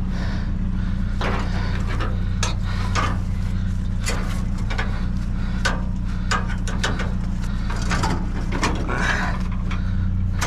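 A vehicle engine idling steadily, with a scatter of short clicks and knocks over it.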